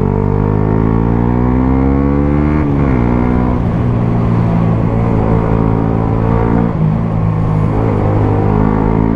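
Suzuki GSX-S 125 single-cylinder engine running through a Mivv GP Pro aftermarket exhaust, rising in pitch as it accelerates, then dropping sharply at a gear change about three seconds in and holding fairly steady after that.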